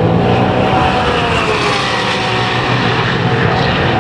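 Race car engine running at speed as it passes on track, its note falling slowly in pitch.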